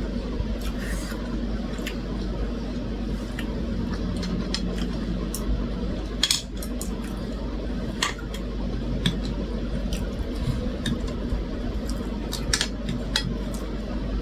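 Eating from a plate of food: scattered light clicks and clinks of cutlery against dishes, over a steady low hum in the background.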